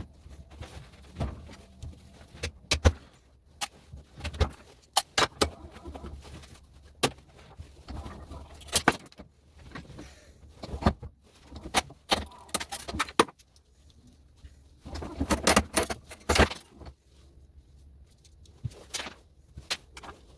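Small metal and plastic parts of household plugs clicking and clinking as they are handled and taken apart, in irregular sharp clicks, some in quick clusters, over a low steady hum.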